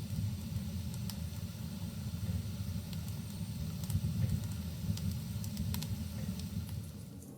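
Wood fire burning in a fireplace: a steady low roar of the flames with scattered sharp crackles and pops of the burning logs. Near the end the low roar drops away abruptly.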